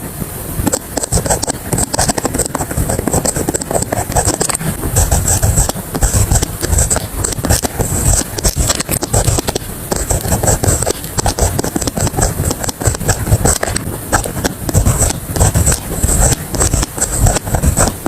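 Pen scratching across paper in quick, continuous writing strokes.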